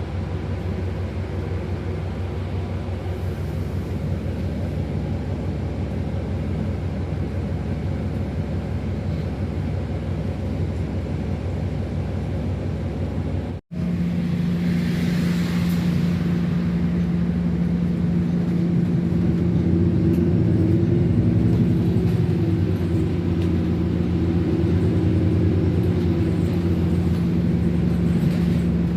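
A motor vehicle's engine running steadily. About halfway through it cuts abruptly to another steady, slightly louder engine hum.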